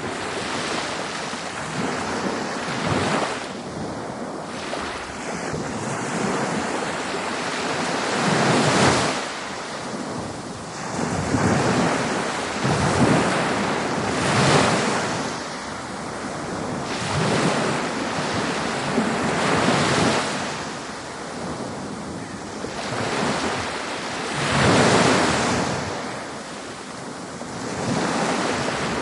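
Ocean waves breaking on a beach: a steady wash of surf that swells and ebbs every few seconds as each wave comes in and draws back.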